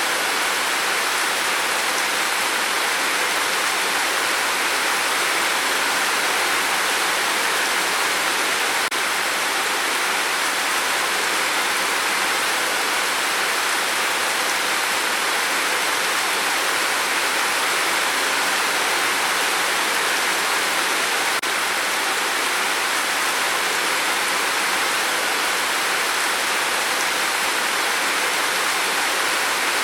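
Rain falling steadily on a tin roof: a dense, even hiss that holds at one level.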